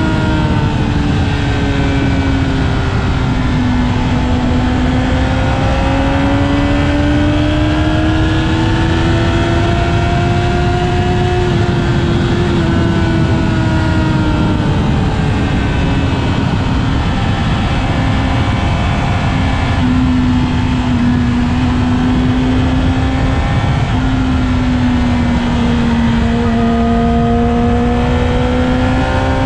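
Inline-four sport motorcycle engines heard while riding on a Yamaha R6 at a steady pace, the engine note rising and falling gently with small changes in speed, over a steady rush of wind and road noise.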